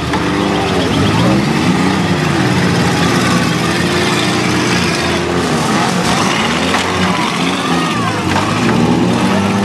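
Several demolition-derby cars' engines revving at once, their pitches rising and falling over one another as the cars push and ram in the mud.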